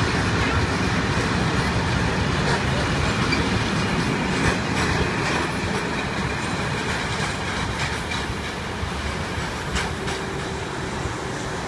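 A train running through a station, its wheels rolling over the rails with scattered clicks. The sound eases off a little in the second half.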